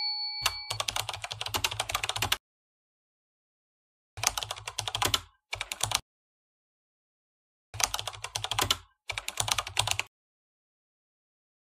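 Keyboard typing sound effect: rapid key clicks in five bursts with silent gaps between, keeping time with text typing onto the screen. A bell-like ding fades out under the first burst and ends abruptly in the first second.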